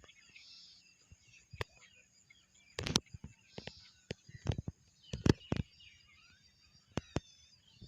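Several small birds chirping and trilling, with sharp clicks or taps scattered throughout; the loudest of these come about three seconds in and a little past five seconds, and they stand out above the birdsong.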